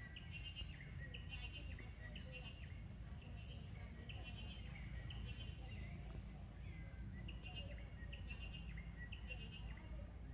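Birds chirping in short repeated phrases about once a second, over a steady low rumble.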